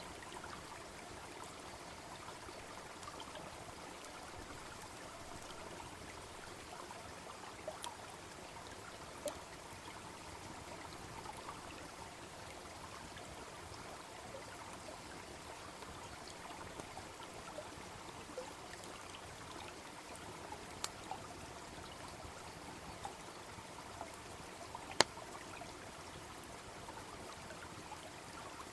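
Small brook babbling steadily, with a few sharp crackles and pops from a wood bonfire, the loudest near the end.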